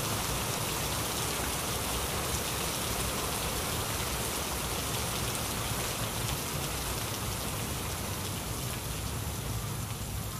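Heavy rain falling steadily, a dense hiss of drops hitting a surface.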